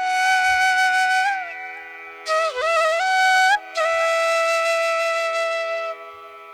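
Background music: a flute playing long held notes that bend and slide between pitches over a steady drone.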